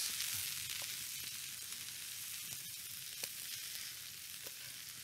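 Hot fried peas and bacon sizzling in a metal frying pan as they are scraped with a wooden spatula into a pot of sauce; an even hiss that slowly fades, with a few faint clicks.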